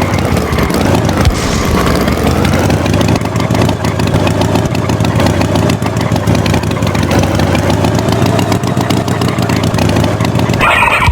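A motor engine running steadily, its pitch dipping and rising again about a second in, with a short louder sound right at the end.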